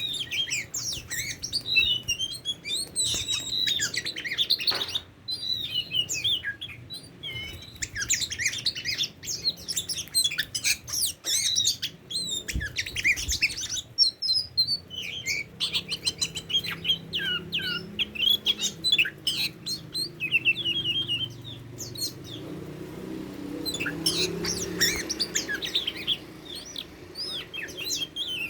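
Oriental magpie-robin singing: a long, varied run of rapid chirps, trills and whistles, broken by a few short pauses.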